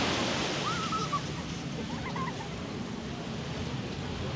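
Beach ambience: a steady wash of surf and wind, with two short high wavering calls about one and two seconds in.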